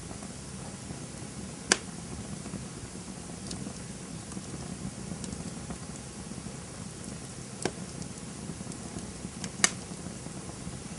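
Campfire burning with a steady low rumble and hiss, broken by sharp pops of crackling wood: three loud ones, about two seconds in, near eight seconds and just before the end, and a few fainter ticks between.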